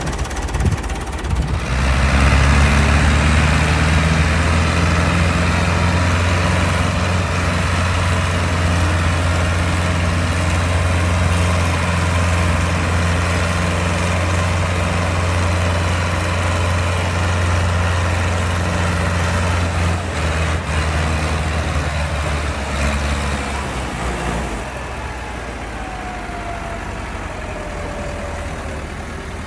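Tractor diesel engine running steadily close by, coming in loud about two seconds in and dropping away suddenly near the end, leaving a quieter engine sound behind.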